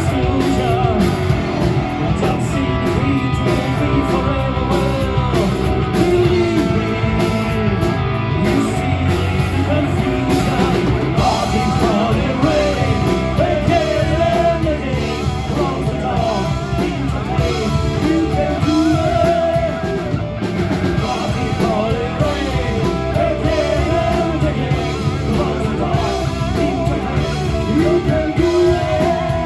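Rock band playing live: electric guitar and drum kit with a sung vocal line, loud and continuous.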